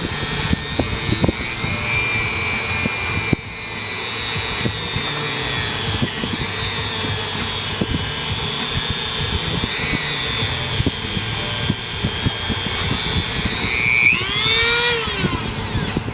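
High-speed rotary tool with a wire wheel scrubbing carbon deposits off an engine's combustion chambers and valves, a high-pitched whine mixed with scraping. Near the end the whine rises and falls in pitch as the tool's speed changes.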